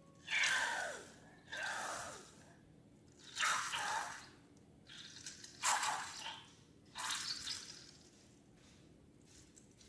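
Wet squelching of slime or a thick liquid being squeezed and worked, in about five separate squelches a second or two apart, some sliding down in pitch.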